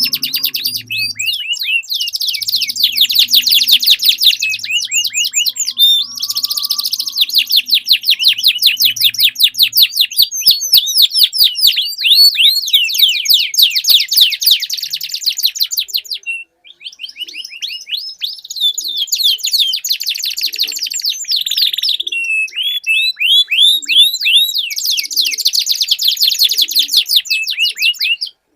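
Domestic canary singing long rolling trills: runs of very rapid, evenly repeated high notes, changing from one roll to the next, with a brief break about sixteen seconds in.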